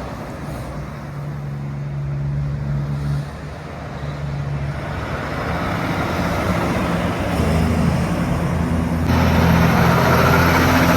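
Road traffic passing on a highway: engines running with steady low tones and tyre noise. It grows louder in the second half as another vehicle draws near, with a sharp rise about nine seconds in.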